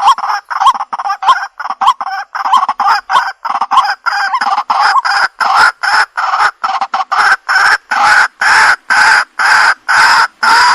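Waterhen (jal murgi) calling: a loud, unbroken series of harsh, repeated calls, quick and choppy at first, then settling into a steady rhythm of longer calls about two a second.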